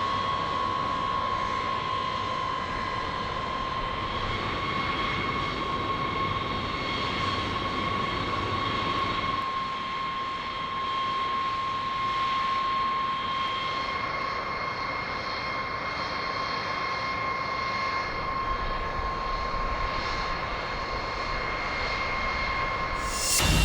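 Aircraft engine running with a steady high whine and a rushing noise beneath it.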